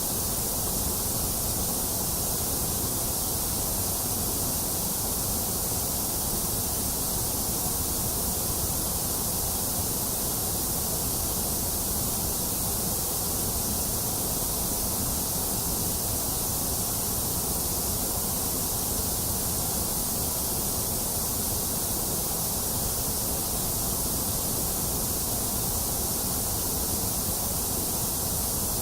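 White noise: a steady, unchanging hiss, strongest in the high treble, with no breaks, events or rhythm.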